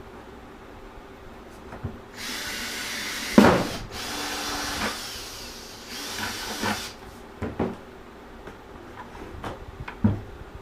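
A power drill cutting a hole through the bottom of a plastic 5-gallon bucket, in two runs of about two and three seconds. There is a sharp loud knock partway through the first run, and a few lighter knocks after the drilling stops.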